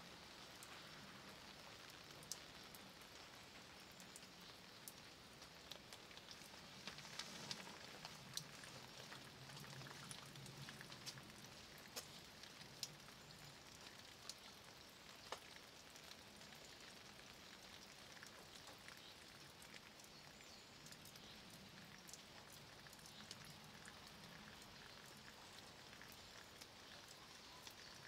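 Soft, steady rain falling on stones and leaves, with single drops ticking sharply every so often.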